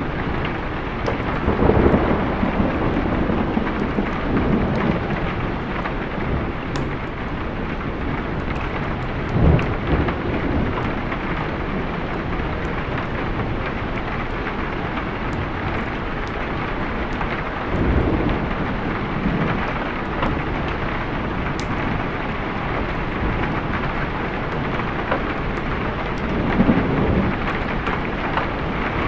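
Steady heavy rain with thunder rumbling. Four louder low rolls of thunder rise and fade through the rain.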